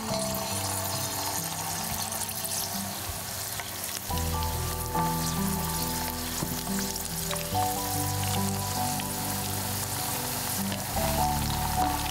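Food frying in a pan: a steady sizzle with fine crackles, under background music that gains a bass line about four seconds in.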